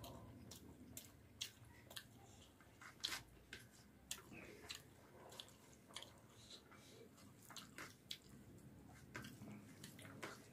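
Faint close-miked chewing of a mouthful of curry and rice, with irregular small wet clicks and smacks of the mouth about once or twice a second.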